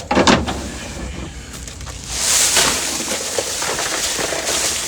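Ice poured into a cooler over a freshly caught catfish: a couple of knocks at first, then a steady rattling hiss of ice from about two seconds in.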